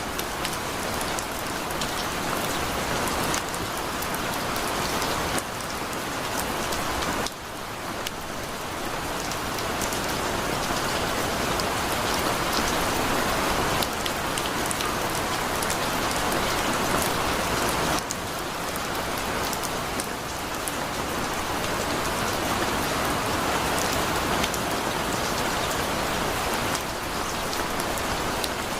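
Heavy rain pouring steadily, a dense hiss of drops striking surfaces with fine pattering ticks, the intensity stepping down and back up a couple of times.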